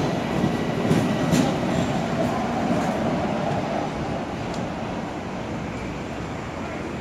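Long Island Rail Road M7 electric multiple-unit train running through the station, wheels rumbling with a few clicks over the rail joints. It fades steadily as the train pulls away.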